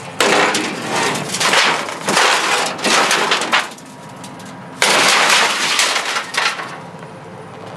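Curbside junk clattering and scraping as it is rummaged through and moved by hand, in two long bouts about a second apart.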